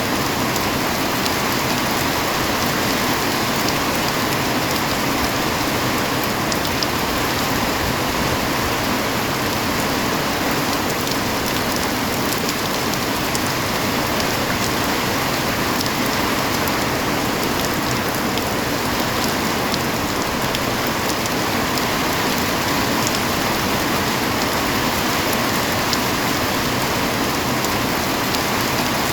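Steady heavy rain falling and pattering on surfaces, a dense even hiss with occasional sharper drop ticks.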